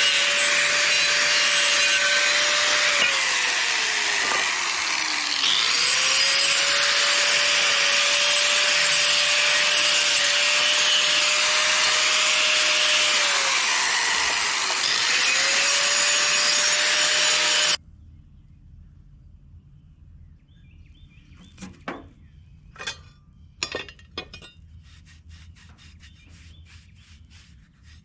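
A handheld power tool cleans a metal part. Its motor runs with a loud, harsh grinding noise over a steady whine, and the pitch sags twice as the tool is pressed into the work. It stops abruptly about 18 seconds in, leaving a few faint clicks and knocks.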